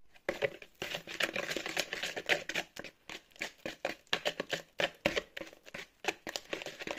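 Spoon scraping and stirring in a mixing bowl as the cooked honey is worked into the cookie dough: a fast, irregular run of scrapes and clicks.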